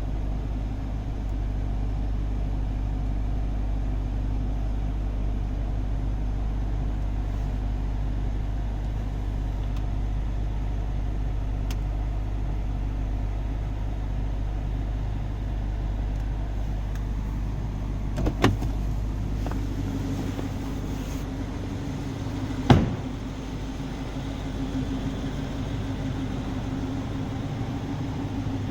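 BMW X5 xDrive50i's twin-turbo 4.4-litre V8 idling steadily. Two short sharp knocks come past the middle, about four seconds apart, the second louder.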